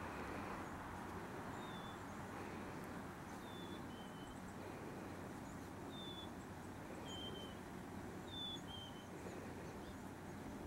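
A small bird chirping outdoors: short high single notes, some falling slightly in pitch, every second or two, over steady background noise.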